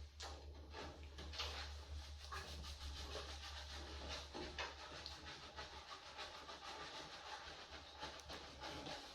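Hands scrubbing and working shampoo through wet hair: a continuous wet rubbing crackle full of small clicks, over a steady low hum.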